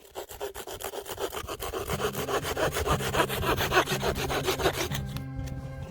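Hand saw cutting scrap wood in quick, even strokes that fade out near the end. Background music comes in about two seconds in.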